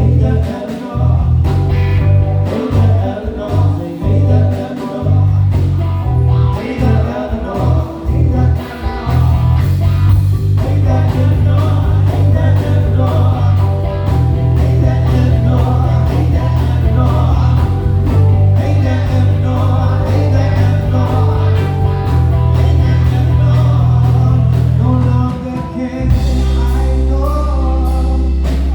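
Live band playing a soul groove: bass guitar, drum kit and keyboard under a melodic lead, with a heavy, steady bass line.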